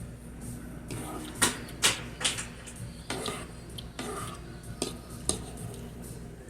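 Spoon clinking and scraping against a soup bowl: several sharp clinks, the two loudest close together about a second and a half in, with a low steady hum behind.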